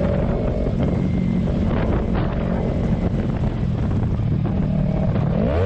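A car driving, its engine and road noise running steadily, with the engine pitch falling near the end as the revs drop.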